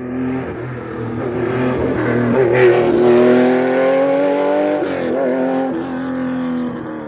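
Rally car engine running hard at high revs, its pitch climbing steadily for a couple of seconds as it accelerates, with a brief dip in revs about five seconds in before it pulls on at steady revs.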